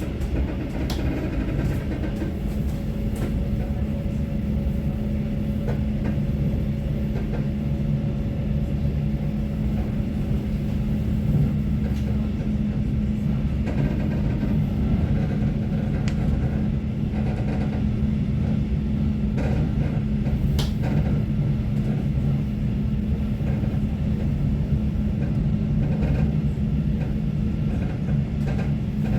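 Inside a moving passenger train: steady rumble of the train running on the rails, with a constant low hum and a few faint clicks scattered through it.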